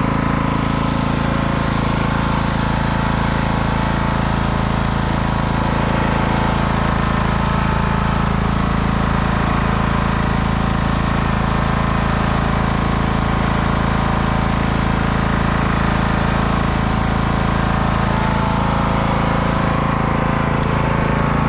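Husqvarna riding lawnmower's engine running steadily at high idle, powering the winch of a homemade log skidder.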